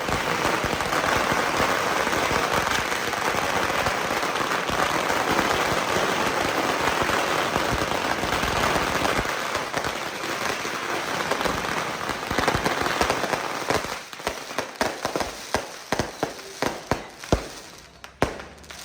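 A string of firecrackers going off in a dense, continuous crackle. After about fourteen seconds it thins into separate, scattered bangs.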